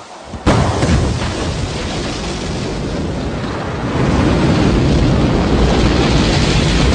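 Rocket launch: a deep rumbling roar of the rocket engines cuts in suddenly about half a second in and grows louder again about four seconds in.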